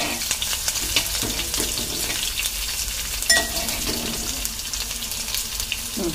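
Sliced shallots and mustard seeds frying in hot oil, a steady sizzle with frequent small crackles, as a metal spoon stirs them around the pot. A short sharp clink a little over three seconds in.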